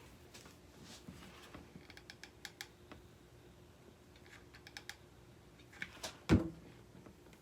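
Hands handling rope and a hot glue gun at a craft table: a run of small clicks and taps, then a single loud thump about six seconds in.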